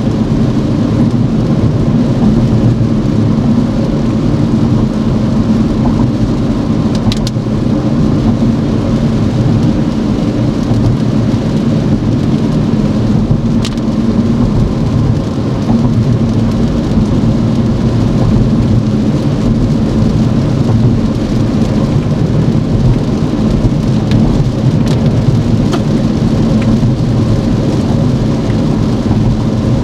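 A car driving in rain: a steady low rumble of road and tyre noise on wet pavement, mixed with rain hitting the car and a few faint ticks.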